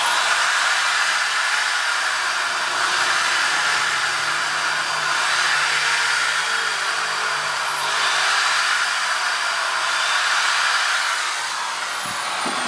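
Small electric drill running steadily as it bores small holes in bamboo cage parts.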